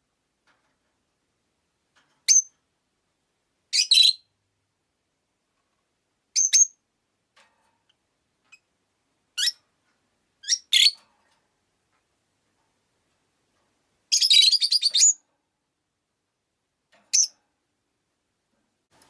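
Rosy-faced lovebirds (peach-faced lovebirds) calling: single sharp, high-pitched chirps a second or two apart, with a longer chattering call about fourteen seconds in.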